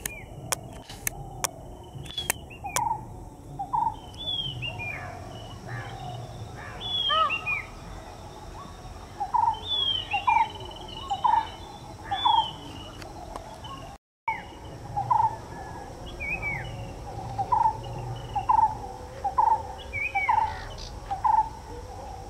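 Birds calling: a short low note repeated about once a second, mixed with higher chirps that fall in pitch. A few sharp clicks come in the first seconds, and the sound drops out for a moment a little past the middle.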